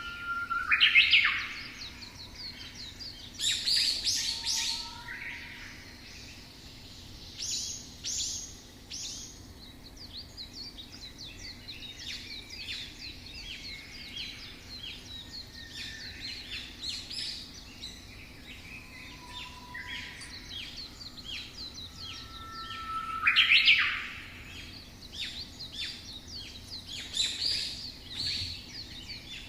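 Songbirds chirping and singing, many short calls and trills overlapping, with louder bursts of chirping about a second in, around four seconds in and again near the end.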